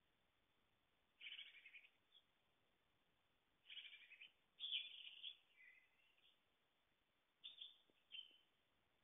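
Faint, scattered bird calls: about six short chirps a second or two apart, one of them sliding down in pitch, over a hushed woodland background.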